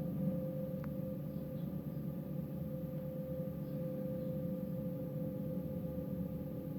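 Train running: a steady low rumble with a steady humming tone over it.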